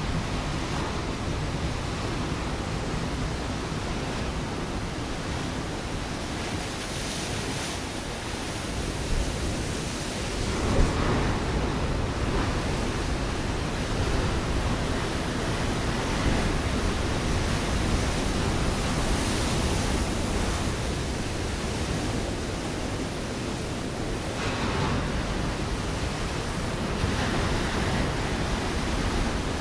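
Ocean waves breaking on a rocky shore: a continuous wash of surf that swells as each wave comes in, with a sharper crash about eleven seconds in.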